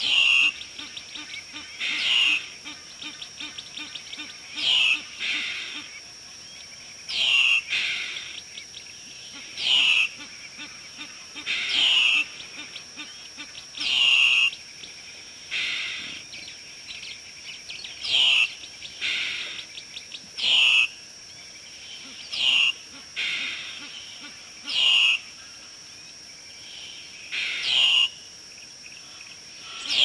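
A bird calling over and over, one short, sharp note every couple of seconds, each dropping slightly in pitch, over a steady high hum.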